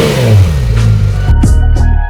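Porsche 911 GT3 RS (991.2) 4.0-litre flat-six with a Dundon street header and muffler, its revs falling from a blip and settling to a steady idle. Music comes in over it about a second and a half in.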